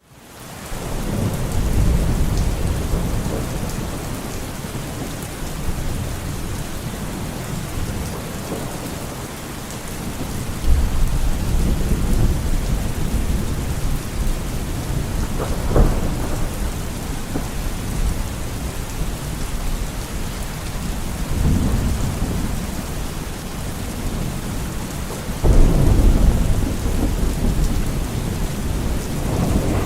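Steady rain falling, fading in at the start, with several low rolls of thunder and one sharper thunderclap about halfway through.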